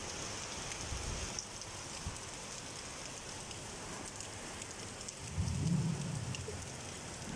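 Steady rain falling on wet paving, with a brief low rumble about five seconds in.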